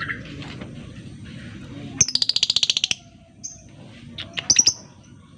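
Lovebird calling: a rapid rattling trill of about a dozen shrill notes lasting about a second, followed by a few short sharp chirps.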